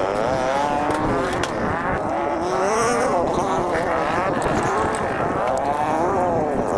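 Several dirt bike engines on a motocross track, revving up and down, their pitch rising and falling over and over with the throttle.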